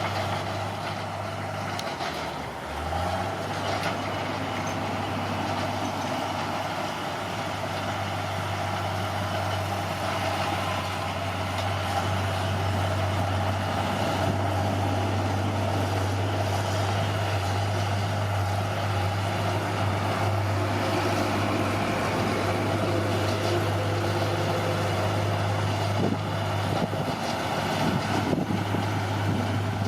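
Bulldozer's diesel engine running steadily with a deep hum. It briefly drops and recovers about two to three seconds in, and a few metallic clanks come near the end.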